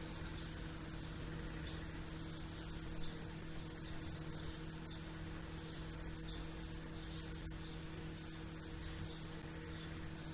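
Small birds giving faint, short chirps, roughly one every second, over a steady electrical hum and hiss.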